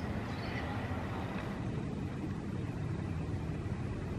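Low, steady rumble of the Mutiara Selatan passenger train moving away along the track, mixed with motorcycle engines at the level crossing.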